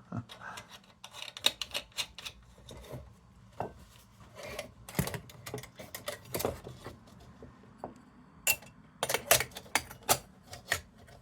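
Metal lantern parts being handled and fitted: irregular clicks, light taps and rubbing, with a quick run of sharper clicks near the end.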